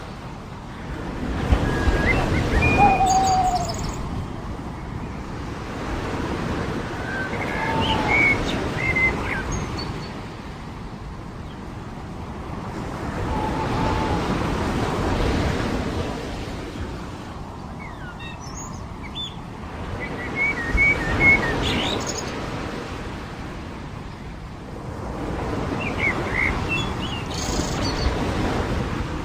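Waves washing onto a beach in slow swells about every six seconds, with birds chirping and whistling in short calls over the surf.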